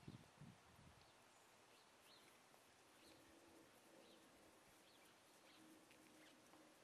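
Near silence: faint outdoor quiet with a few short, faint bird chirps about once a second.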